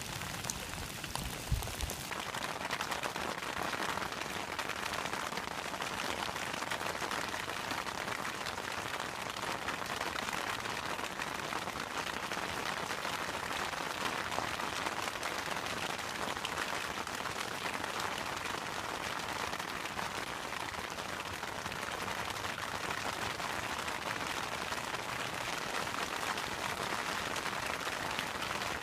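Steady rain falling, an even hiss with many fine drop ticks. A few low thumps sound in the first two seconds.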